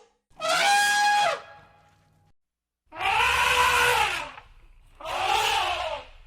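Elephant trumpeting: three loud trumpet blasts about a second each, with short gaps between. The first holds a steady pitch and drops at its end; the next two arch up and fall.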